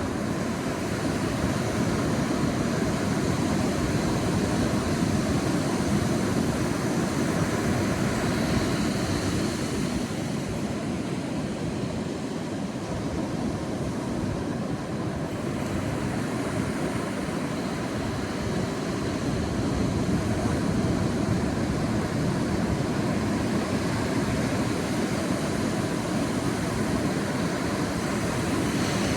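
Sea waves washing onto a beach: a steady rush of surf that swells and eases slowly over many seconds.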